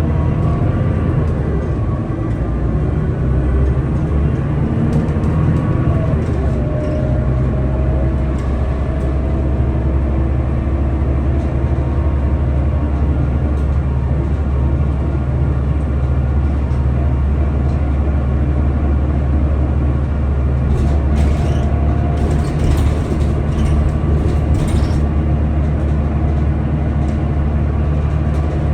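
Scania L94UB bus's diesel engine running under way, with a steady low rumble and a whine that rises in pitch several times as the bus gathers speed. A cluster of sharp rattling clicks comes about three quarters of the way through.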